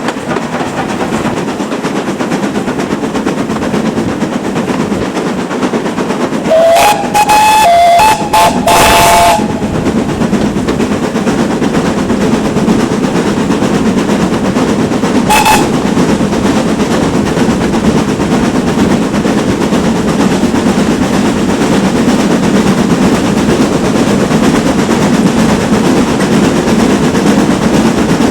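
Great Western Manor-class steam locomotive whistling: a quick series of short blasts about a quarter of the way in, the last one the longest, then a single brief blast a few seconds later. The steady running noise of the train continues underneath.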